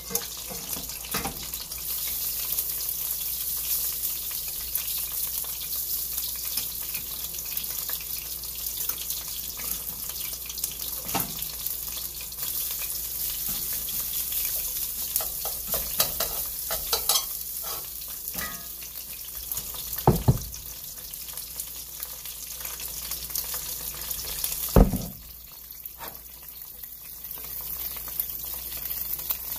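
Chunks of beef sizzling in a cast-iron skillet, a steady frying hiss with scattered small clicks from utensils. Two loud thumps come about 20 and 25 seconds in, and after the second the sizzle is quieter.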